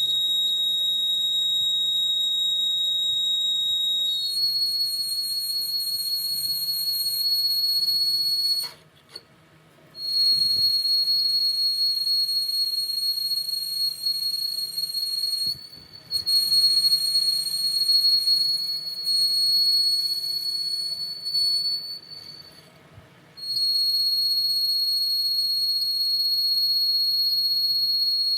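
A small high-speed motor, likely a workshop power tool, whining at a steady high pitch. The pitch steps up slightly about four seconds in, and the whine cuts out and restarts three times.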